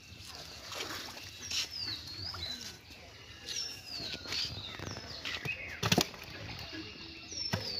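A bird calls over and over in short hooked whistles. About six seconds in comes a quick cluster of loud sharp slaps.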